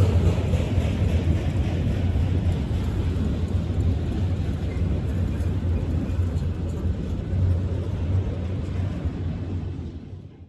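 Freight train of auto rack cars rolling past: a steady rumble of steel wheels on rail with a low hum, fading out in the last second.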